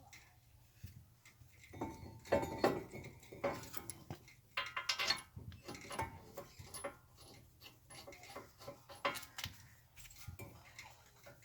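Metal tools and parts being handled during a brake job: a run of sharp clinks, clanks and rattles, busiest in the first half, then scattered clicks.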